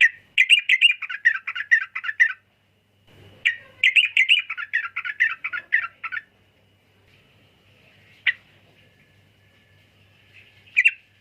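Yellow-vented bulbul singing: two runs of rapid, bubbling chattering notes a few seconds long, then two single sharp notes near the end.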